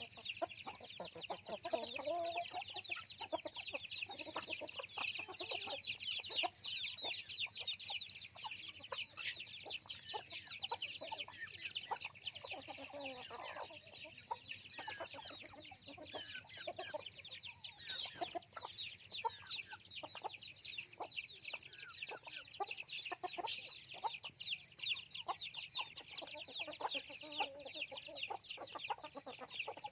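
A flock of chickens calling non-stop: many chicks give a dense, continuous peeping, and hens cluck lower underneath.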